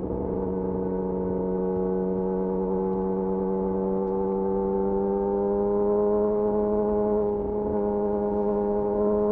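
Yamaha YZF-R6's inline-four engine running through a de-catted Akrapovic slip-on exhaust while riding. It holds a steady drone whose pitch slowly rises as the bike gently gains speed, with a short dip in level right at the start and another about seven seconds in.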